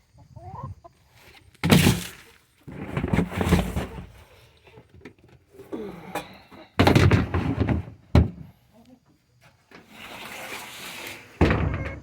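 Chickens clucking amid a series of loud thumps and rustling, with one sharp knock just after the middle.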